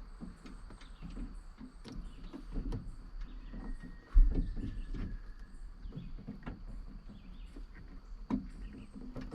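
Handling noise of wire being pushed through a rubber grommet: scattered light clicks and rustles, with one sharp thump about four seconds in. Birds chirp faintly in the background.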